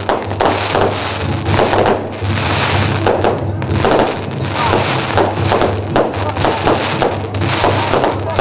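Firecrackers crackling in a dense, continuous stream, mixed with music and a steady low hum.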